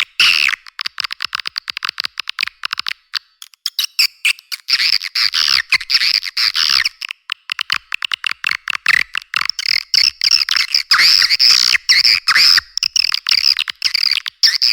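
Recorded swiftlet calls, a lure track of the kind played to draw swiftlets into a nesting house. Rapid trains of chattering chirps come in bursts broken by short gaps, around one second in, three to four and a half seconds in, and seven to nine seconds in, with the bass filtered out.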